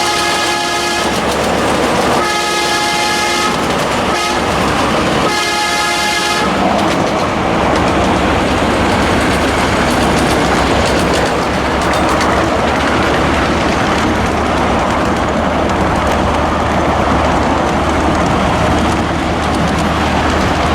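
Locomotive air horn sounding the grade-crossing signal: two long blasts, a short one and a final long one. Then the steady rumble and rail clatter of the passing train.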